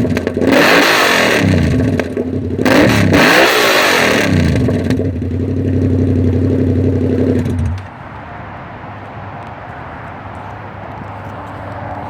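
2016 Yamaha FZ-07 parallel-twin engine through a straight-pipe exhaust, really loud. It is revved in quick blips that rise and fall, then held at a steady speed for a few seconds. About eight seconds in the sound drops sharply to a much quieter level.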